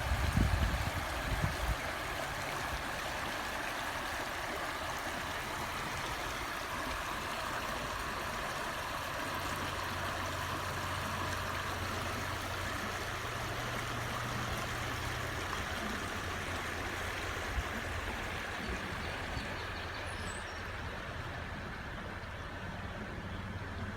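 River water rushing steadily, with a faint low hum underneath through the middle.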